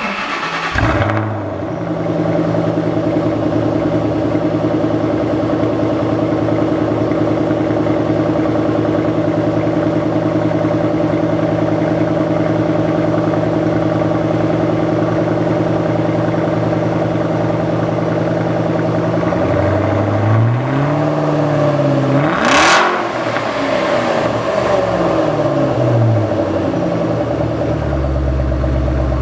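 A 2011–2014 Ford Mustang with an aftermarket exhaust starts up, flares and settles into a steady idle. In the last third it is revved several times, the sharpest rev coming about three-quarters of the way through.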